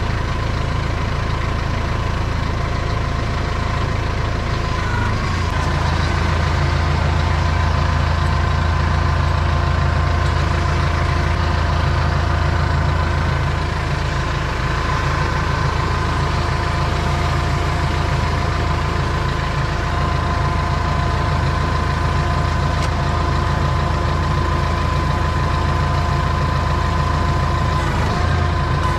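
An engine running steadily at idle, with a slight shift in its pitch about five seconds in and again near the end.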